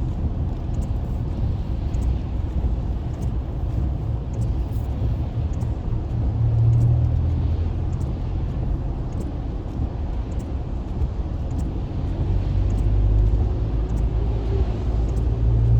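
Steady low rumble of a car's engine and tyres heard from inside the cabin while driving on the highway, swelling louder about seven seconds in and again near the end.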